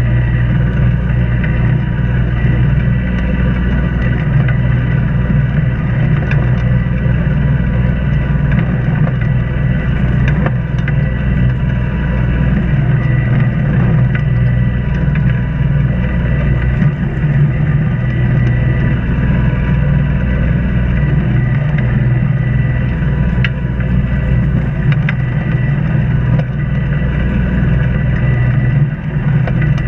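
A sailboat's inboard engine running steadily under way, a constant low drone that holds the same pitch throughout.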